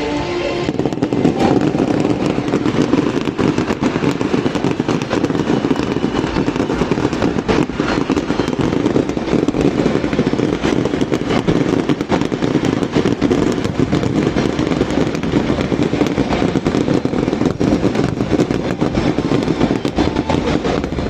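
Aerial fireworks going off in a dense, continuous barrage: many rapid bangs and crackles overlapping without a break, loud and steady throughout.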